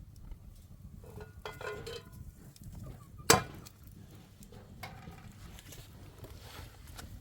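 Small clinks and taps of spoons and dishes, with one sharp knock about a third of the way in that is the loudest sound.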